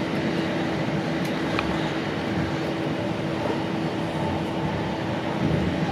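Steady running noise inside a moving passenger train carriage: wheels rolling on the rails, with a constant low hum.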